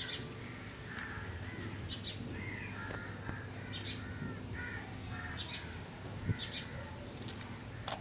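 Birds calling: a run of short calls, one after another.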